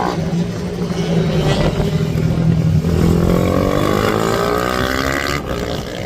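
Racing minibike engines on track: one holds a steady note, then from about halfway through a higher engine note climbs in pitch as a bike accelerates.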